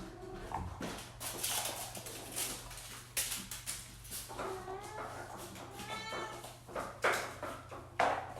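A kitten mewing twice near the middle, a short call and then a longer one, among scattered light clicks and knocks.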